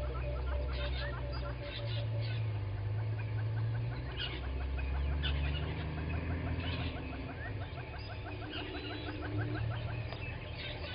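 Dawn bush chorus: birds calling, with fast trains of small repeated chirps and ticks and a steady low hum underneath.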